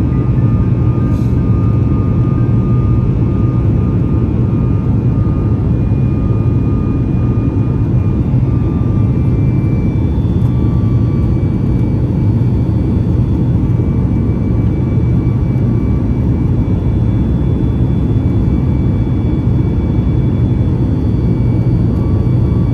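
Boeing 737 MAX 9 cabin noise in flight just after departure: a steady, even rush of jet engine and airflow noise, heaviest in the low end, with a faint steady whine on top.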